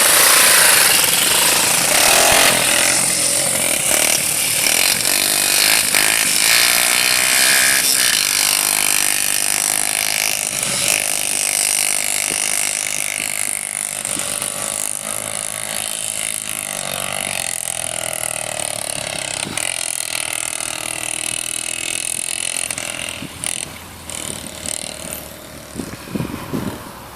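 Motocross bike engine running and revving, its pitch rising and falling; it grows fainter and more uneven in the last few seconds.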